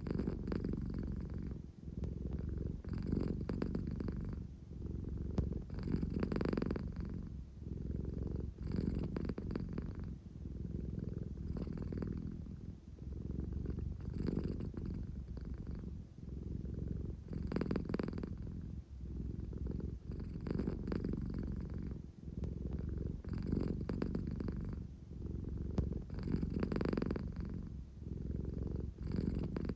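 American Shorthair cat purring steadily, a low rumbling purr that swells and eases with each breath about every three seconds. A sleepy, contented purr.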